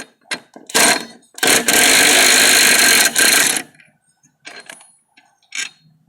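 A short clatter, then about two seconds of loud mechanical whirring that stops abruptly, followed by a few light clicks of metal parts.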